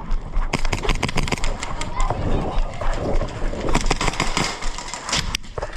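Airsoft guns firing in irregular sharp pops and clicks, mixed with movement noise and voices.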